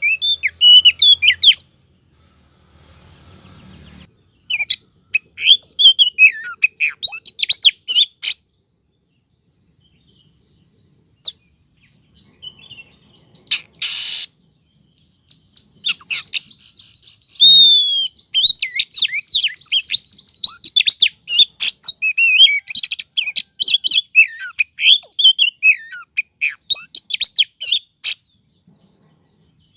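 Female oriental magpie-robin (kacer) calling in bursts of quick chirps and whistles, broken by pauses of a few seconds, with one short harsh buzzy note about halfway through. This is the female's 'sweetener' call, used as a lure to draw in males.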